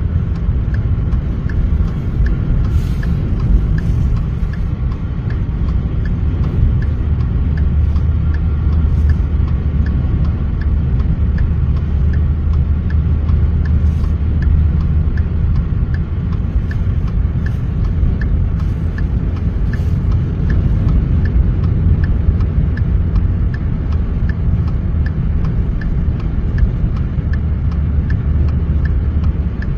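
Steady low rumble of a vehicle driving on the highway, heard from inside the cab, with faint regular ticks about twice a second.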